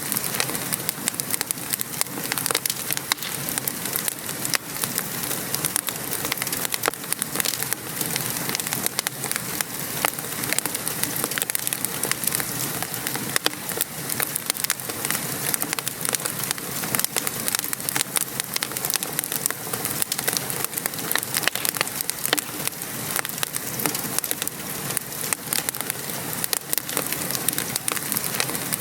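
Steady rain falling and pattering, with a wood fire crackling: many small sharp pops over an even hiss.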